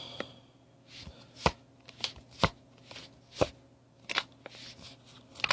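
Magic: The Gathering trading cards being handled and flipped through one at a time, each card giving a short, sharp snap or tap against the others or the table, roughly every half second to a second.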